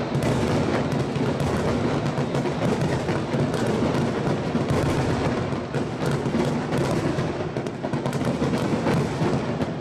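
Dense barrage of fireworks: many aerial shells bursting and crackling in quick succession without a break, easing briefly near the end.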